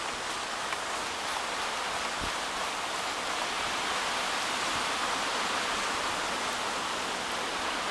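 Steady, even hiss of blizzard wind and blowing snow.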